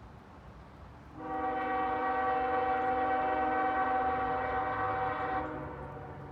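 A CSX diesel locomotive's air horn sounds one long chord of several notes, starting about a second in and lasting about four seconds, just after the fading end of an earlier blast. A low rumble from the train runs underneath.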